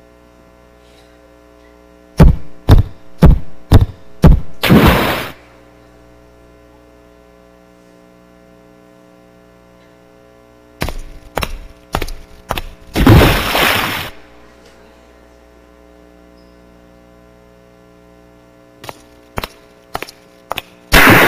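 Sound effects from a projected presentation video played over a PA system: three times, a quick run of sharp knocks ends in a longer noisy crash. A steady mains hum from the sound system runs underneath.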